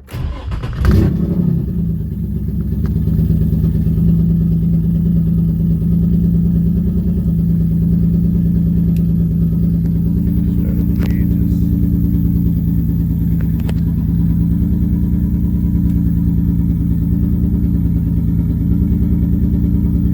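Turbocharged Infiniti G35's V6 engine cranking and firing up. It flares briefly about a second in, then settles into a steady idle.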